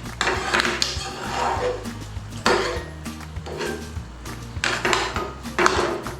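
A utensil stirring and scraping through thick curry sauce in a pan, a handful of strokes, as the sauce reduces. Background music plays underneath.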